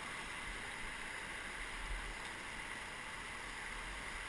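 Whitewater river rapids rushing steadily around a raft, with a low wind rumble on the microphone.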